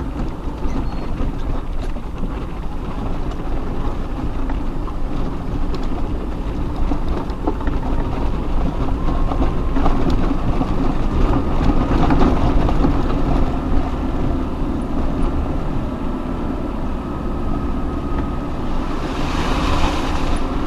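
Off-road 4x4 crawling along a rough mountain track: steady low engine rumble with scattered knocks and rattles from the vehicle working over the rocky ground, and a short hiss near the end.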